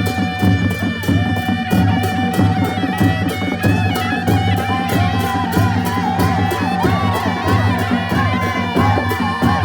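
Panche baja band playing: a shehnai (sanai) carries a reedy, wavering melody over drums and clashing cymbals that keep a steady, quick beat.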